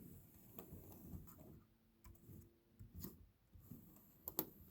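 A few light clicks and taps from handling the model railway's controls and track, with a sharper double click near the end.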